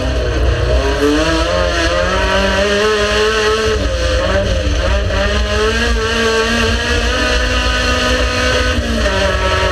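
Race car engine running hard under load, its pitch climbing and falling as the driver works the throttle and gears, with clear drops about four seconds in and again near the end, over a heavy low rumble.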